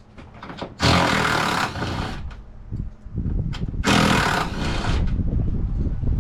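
A compressed-air tool run in two bursts of about a second each, a loud hiss with a rattling rumble underneath, with clunks of hardware in between.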